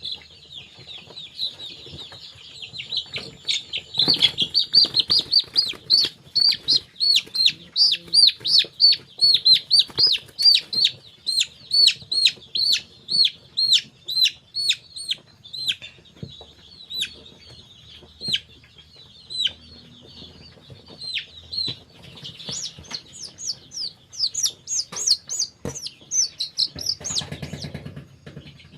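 A brood of young chicks peeping continuously: a dense run of short, high, falling peeps, loudest in two spells. Near the end comes a brief rustling burst.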